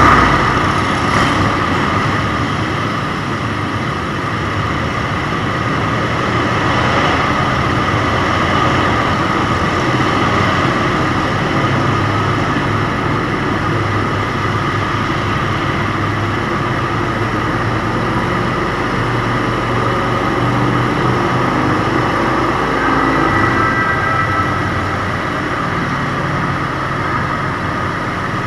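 Motorcycle engine running steadily under way, with road noise, its low rumble rising and falling a little; a short loud burst right at the start.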